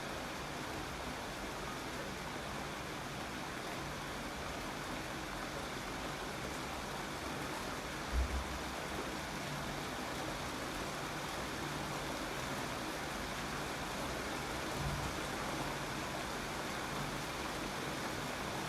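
Steady rainfall, an even hiss. A brief low thump comes about eight seconds in, with a fainter one near fifteen seconds.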